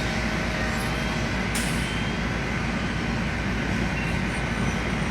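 Steady drone of running heavy truck engines, with a short hiss about a second and a half in.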